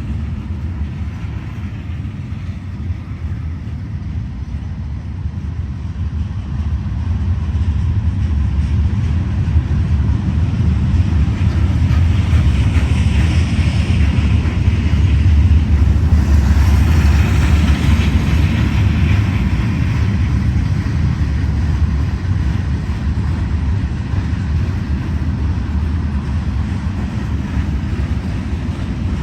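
Norfolk Southern manifest freight train rolling past on the rails: a steady rumble of wheels on track that grows louder from about a quarter of the way in, peaks around the middle and eases off slightly.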